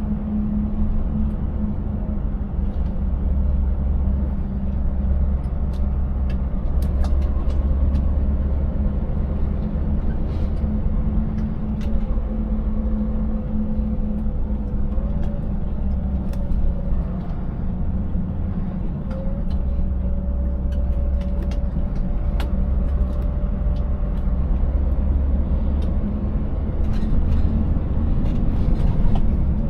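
Scania 590S's 16-litre V8 diesel truck engine running steadily under way, its note dipping and stepping a little around the middle. Short knocks and rattles are scattered throughout as the truck travels over a rough, broken road.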